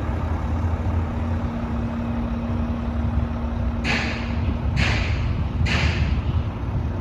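Mack MP7 diesel engine of a 2014 Mack LEU613 garbage truck running with a steady low rumble, and a steady hum that fades out about halfway through. Three short hisses of released air, a little under a second apart, come from the truck's air system near the middle.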